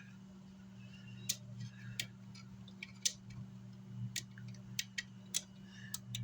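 A dozen or so sharp, irregular clicks and ticks, as of small parts, connectors or controls being handled on a workbench, over a steady low hum.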